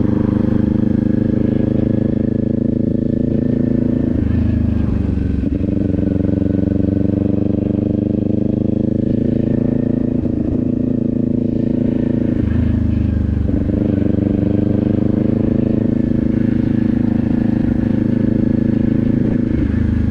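Kawasaki Z400's parallel-twin engine running at low, steady revs while riding slowly. The engine note shifts briefly three times: a few seconds in, about two-thirds of the way through, and near the end.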